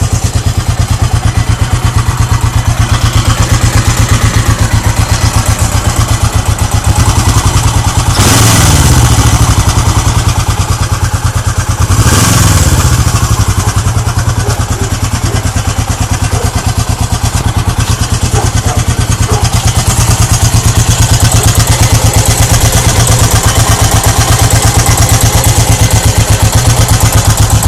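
Suzuki GS400's air-cooled parallel-twin engine idling with a clunking sound, blipped up and back down twice, about 8 and 12 seconds in.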